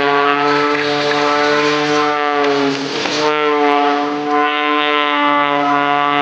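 Edge 540 aerobatic plane's six-cylinder Lycoming engine and propeller droning in flight, a steady buzzing tone that dips briefly about three seconds in and comes back slightly higher in pitch.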